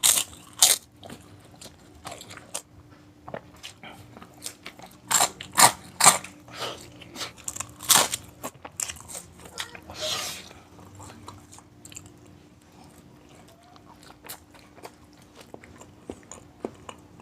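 Close-miked crunchy bites and chewing of crispy fried food, in irregular loud crunches during the first eight seconds or so, with a longer crackling stretch about ten seconds in and softer chewing after it.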